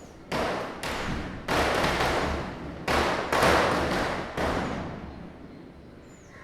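Diwali firecrackers bursting: about six sharp bangs in quick, irregular succession over four seconds, each echoing and dying away. The bangs near the middle are the loudest.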